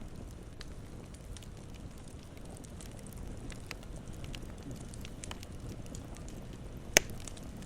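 Campfire burning with a steady low rumble and scattered small crackles, and one sharp, loud pop about seven seconds in.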